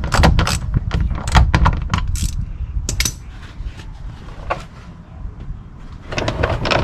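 Rapid clicking of a hand ratchet for about the first two seconds, then scattered knocks and clatter of metal tools, with another short burst of clicking and clatter near the end.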